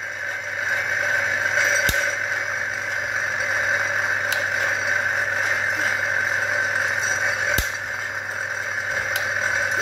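Husqvarna K970's 94cc two-stroke engine idling steadily, after dropping off its quarter-throttle warm-up speed just before. A few sharp clicks stand out over the idle.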